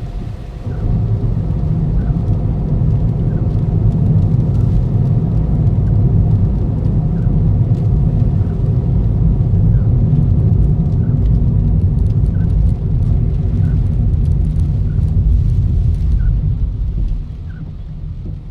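Toyota Ractis on the move: a steady, loud low rumble of engine and road noise that eases near the end, with a faint regular ticking above it.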